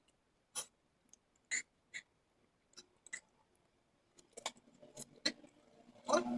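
A person chewing food close to the microphone: a scattering of short, separate crunches and mouth clicks with quiet gaps between them.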